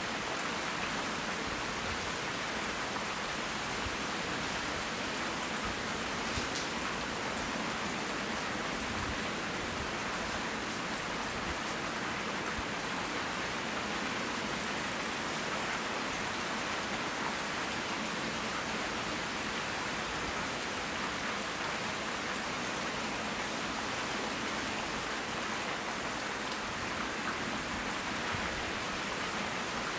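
Tropical rain falling steadily, an even, unbroken patter of rain on surfaces.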